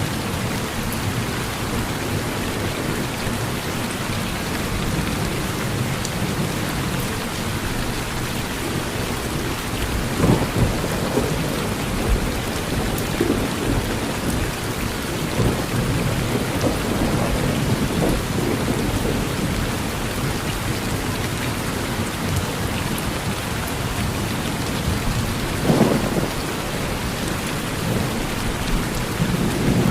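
Steady rain falling on a porch, with low thunder rumbling under it. A few brief louder bursts stand out, the clearest about a third of the way in and near the end.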